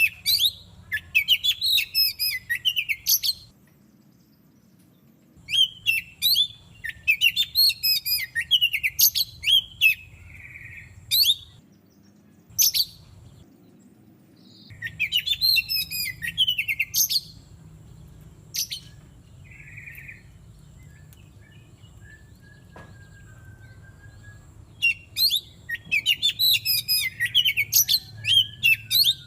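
Oriental magpie-robin (kacer) singing loud, rapid phrases of varied whistles and chirps, each burst lasting two to four seconds with pauses between, the last burst starting near the end. A faint low hum runs underneath.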